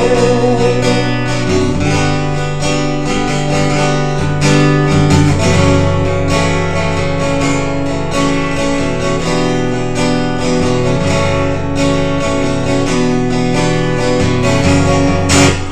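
Acoustic guitar strumming chords through an instrumental break in a song, with sustained low notes underneath; the music dips briefly right at the end.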